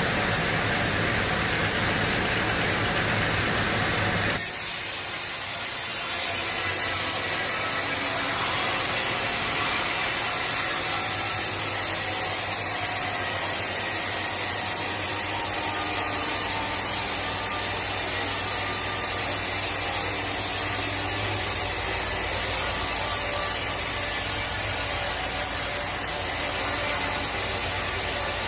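Sawmill saw and its motor running steadily while processing a teak log, with a high hiss over a low hum; the sound shifts about four seconds in.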